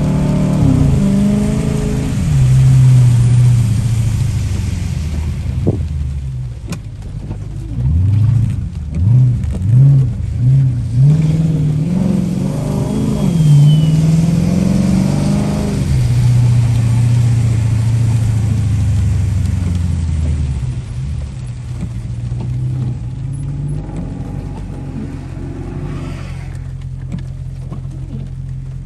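Car engine revving hard in first gear, with a quick run of about four blips near the middle, then dropping back to a steady idle for the last several seconds. It is a donut attempt in a car with an open differential.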